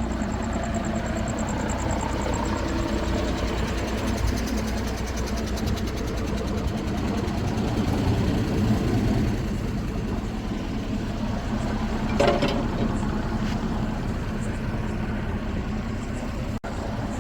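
Truck engine idling steadily, with one short, sharp sound about twelve seconds in.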